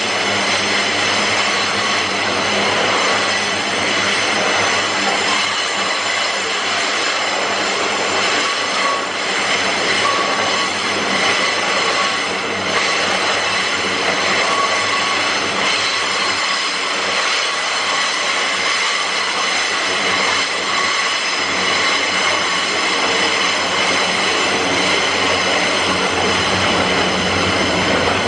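A loaded iron-ore train rolling past: a steady, loud noise of the wagons on the rails, with a high ringing tone over it.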